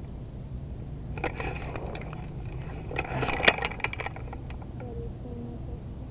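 Close rustling with small clicks and rattles, in two short bouts about a second and three seconds in, with one sharp click near the middle of the second bout, typical of a player's gear being handled or shifted close to the microphone.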